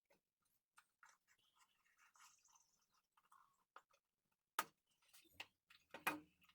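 Faint handling of a container of aluminum powder being worked open: soft rustling and scraping with scattered small clicks, a sharper click about four and a half seconds in, and louder clicks near the end.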